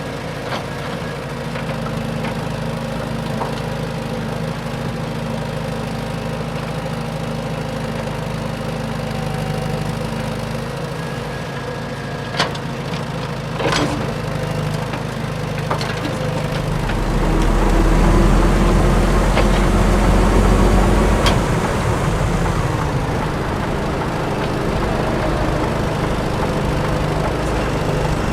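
RC dump truck's diesel engine sound idling steadily, with a few sharp clicks in the middle, then revving louder for about five seconds before settling back to idle.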